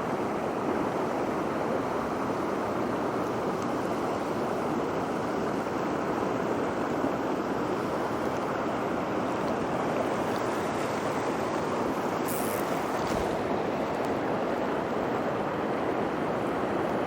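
Steady rushing of a small mountain stream, water pouring over rocks and small falls into a pool.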